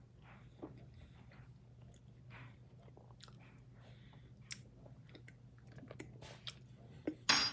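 Close-miked mouth sounds of someone chewing a spoonful of Oreo Dirt Pie Blizzard (soft-serve with Oreo cookie pieces and gummy worms): soft scattered smacks and small crunches over a low steady hum, with one brief louder noise near the end.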